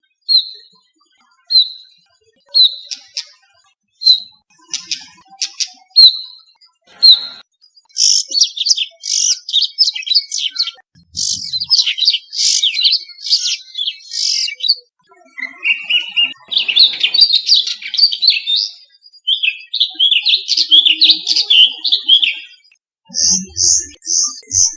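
Brown rock-chat calling: single short, high notes repeated about once a second, then from about eight seconds in a continuous, varied chattering song. Near the end, a quick run of higher, evenly spaced notes.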